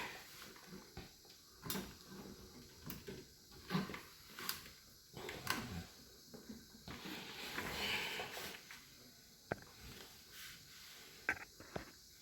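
Faint handling sounds of a clip being fastened onto a plastic water pipe: scattered small clicks and taps with brief rustles.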